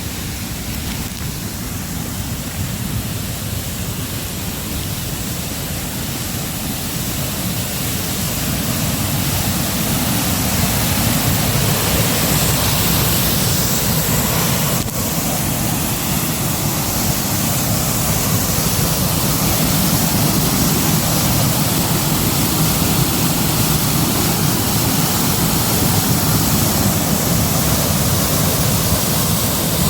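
Waterfall rushing: a steady wash of falling water that grows louder over the first twelve seconds or so, then holds.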